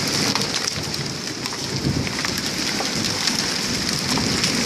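Heavy rain mixed with hail: a dense, steady hiss of downpour with many scattered sharp clicks of hailstones striking hard surfaces.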